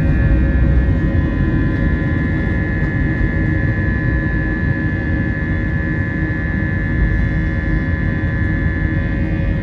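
Engines of a Wizz Air Airbus A320-family jet airliner running steadily, a high whine of several fixed tones over a low rumble.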